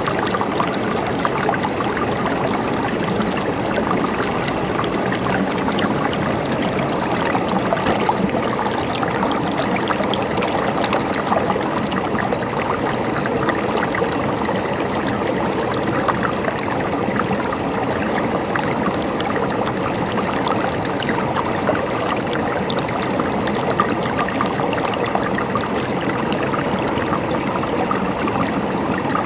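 A stream running over rocks, a steady rushing and trickling of water that keeps the same level throughout.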